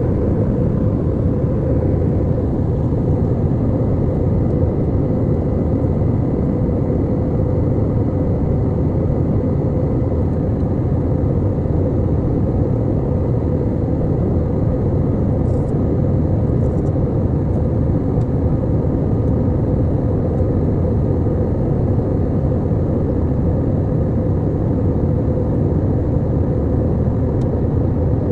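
Steady low rumble of an airliner cabin: engine and airflow noise, unchanging throughout.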